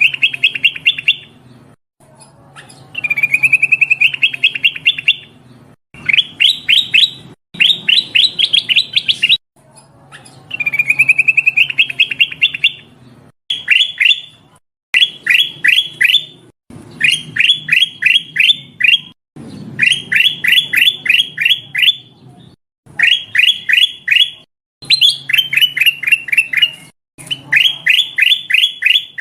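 Kutilang emas, a bulbul, calling in repeated phrases of quick, sharp, rising chirps, about five a second, with short pauses between phrases. Some phrases open as a faster trill that climbs slowly in pitch. It is a lure call of the kind used to draw in other birds of its species.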